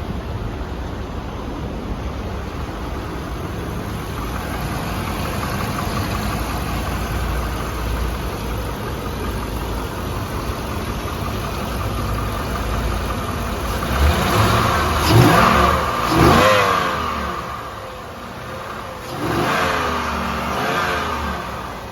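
A motor vehicle's engine running with a steady low rumble, then two louder spells of rising and falling engine pitch in the second half.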